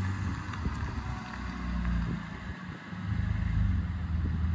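Vehicle engine running steadily at a low, even idle, dipping briefly a little past halfway.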